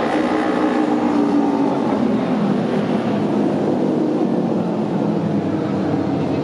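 Several auto race motorcycles' engines running together in a steady, loud, layered drone.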